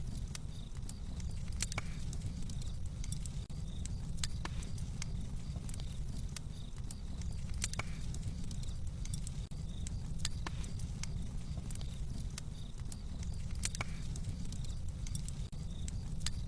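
Wood fire crackling in a fireplace: a steady low noise of the flames with irregular sharp crackles and pops.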